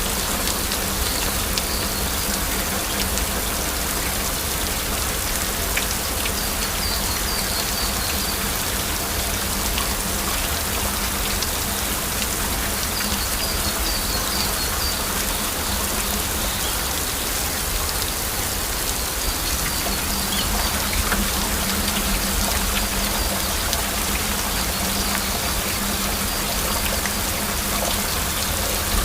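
Heavy rain falling steadily, a dense even patter with no thunder. A faint high chirping recurs every few seconds.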